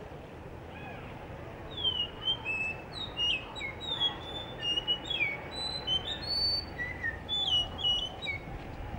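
Blue whistling thrush singing: a varied, run-on phrase of clear whistled notes with quick falling and rising slides, starting about two seconds in.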